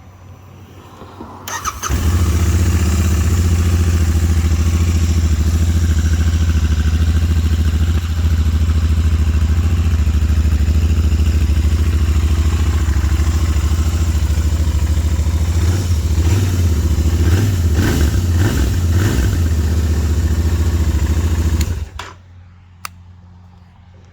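Royal Enfield Interceptor 650's parallel-twin engine on its stock mufflers, started and running at a steady idle. The beat turns uneven for a few seconds near the end, and the engine is then switched off.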